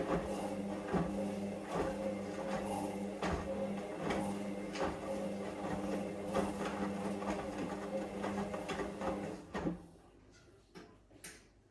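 Hoover Vision Dynamic washing machine washing, its drum motor running with a steady hum and repeated knocks from the tumbling load, then stopping abruptly just before ten seconds in as the drum pauses between turns.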